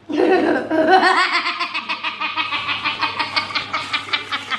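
Laughter breaking out suddenly and running on in a fast chain of short pulses, about four or five a second.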